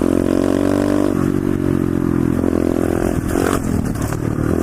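Pit bike engine running under a rider, its pitch dropping about a second in and rising again as the throttle changes. A rough scraping clatter cuts in briefly about three seconds in.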